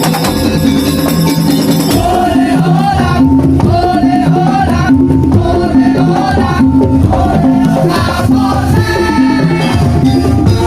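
Live percussion ensemble playing tongtong/daul-style music: drums and rattles keep a steady driving beat, and a wavering melody line comes in about two seconds in.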